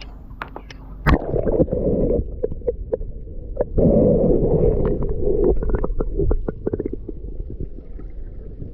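Muffled water sloshing and gurgling with many short knocks and clicks scattered through it, loudest from about one second in to just past the middle.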